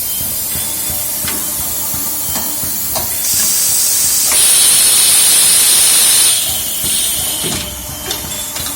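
Compressed air hissing from the pneumatic equipment of an automatic engine-valve loading and unloading machine. A loud blast builds about three seconds in, holds for about two seconds, and returns briefly, over a steady background hiss with a few light mechanical clicks.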